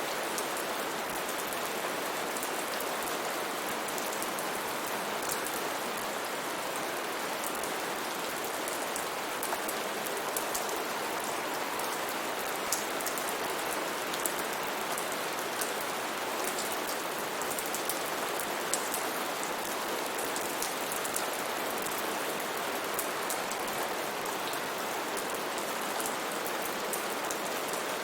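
Steady rain falling, a constant hiss with many sharp drop impacts ticking on top.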